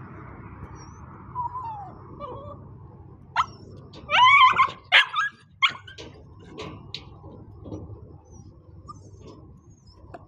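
Dog whining softly, then a short burst of loud yelps and barks about three and a half to six seconds in, followed by quieter whimpers.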